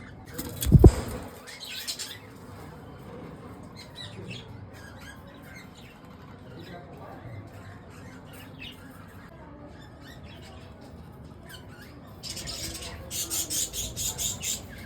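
Caged budgerigars chirping faintly, with a loud thump about a second in. Near the end comes a burst of rapid wing flapping, several beats a second.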